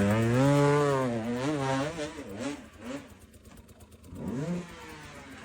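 Monster truck engine revving hard, its pitch rising and falling for about two seconds before fading, with a second short rev near the end.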